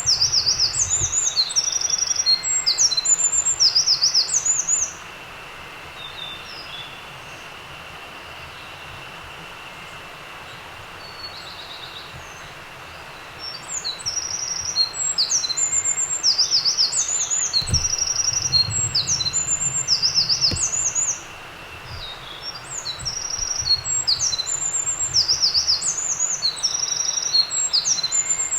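A songbird singing long, high, rapid trilling songs, each several seconds long, three times with pauses between.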